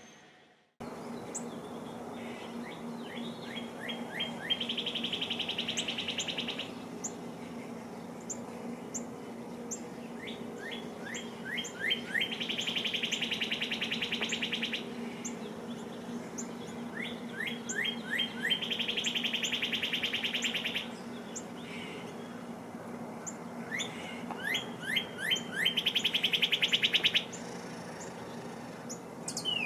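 A songbird singing the same song four times, each a run of quick downward-slurred notes leading into a fast trill about two seconds long, over a low steady hum.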